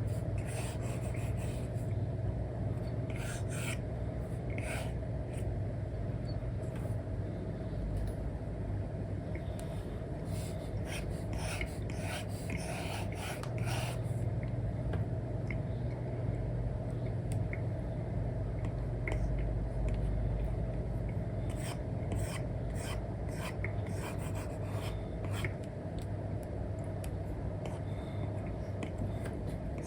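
Apple Pencil tip scratching and rubbing across an iPad's paper-like screen film in short coloring strokes, some bunched together in quick runs, over a steady low hum.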